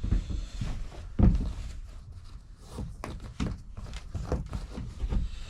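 Irregular dull knocks and thumps, a handful spread unevenly, the loudest about a second in.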